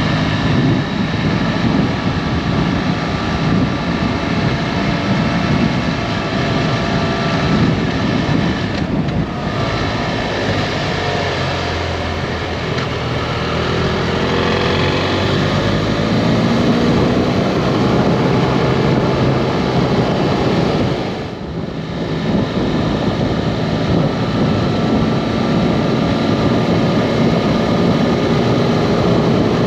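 BMW F800GT parallel-twin motorcycle engine running under way, its pitch rising and falling as it revs through the road, under heavy wind noise on the microphone. The sound dips briefly twice, about nine and twenty-one seconds in.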